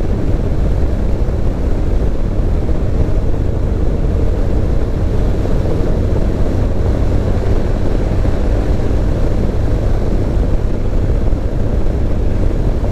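Car driving along a winding road, with steady engine and tyre noise heard inside the cabin.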